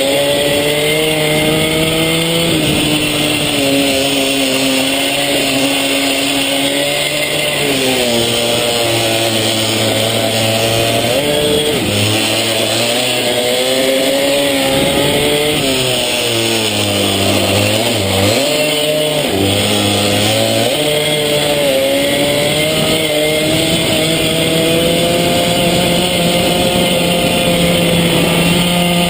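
Small pit bike engine ridden hard, its pitch climbing and dropping over and over as the throttle is opened and shut. The pitch dips sharply several times in the middle, as when braking for corners, and holds high near the end.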